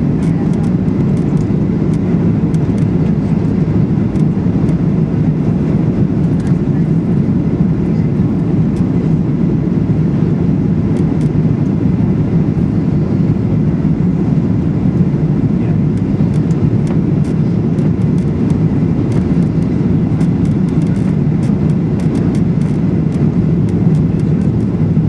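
Steady engine and airflow noise heard inside the cabin of a Boeing 737-800 with CFM56-7B engines, a deep, even rumble, with faint light rattles of cabin fittings scattered through it.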